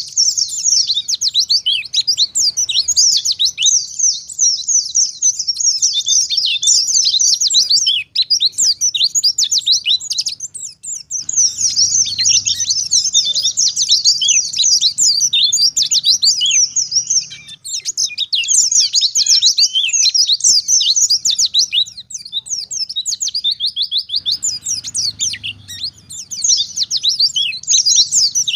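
Wild white-eye (pleci) singing a fast, continuous chatter of high twittering notes, with a few short pauses along the way.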